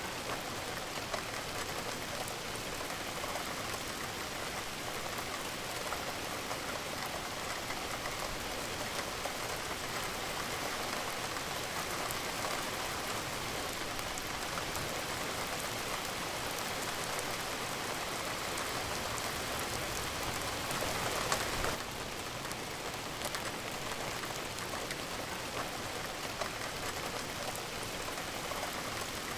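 Steady rainfall, with individual drops landing as small sharp clicks over an even hiss. It grows slightly louder for a couple of seconds about twenty seconds in, then drops back suddenly.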